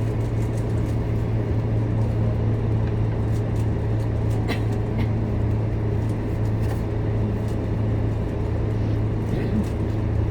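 Scania K230UB Euro V bus's diesel engine running steadily while the bus drives, a constant low hum with road noise and a few light rattles.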